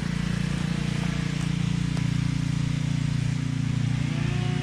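A small engine running steadily, with a second tone rising and then holding about four seconds in.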